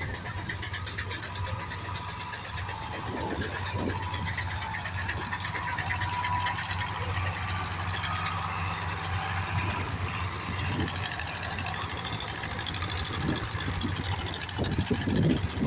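Tractor engine running steadily with an even, fast firing beat.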